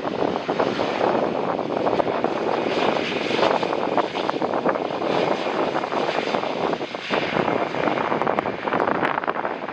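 Jet airliner on its landing approach, its engines making a steady rushing noise that holds level throughout.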